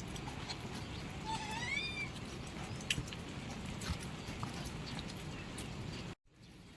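A single short rising animal cry, with harmonics, about a second in, over steady background noise with scattered clicks and taps. The sound cuts off abruptly near the end.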